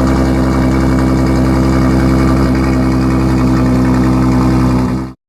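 Aston Martin Vulcan's 7.0-litre V12 idling steadily after starting, the sound cutting off abruptly near the end.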